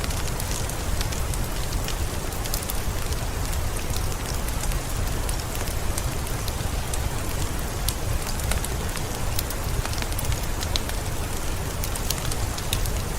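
Steady rain with scattered crackles and pops from a wood fire.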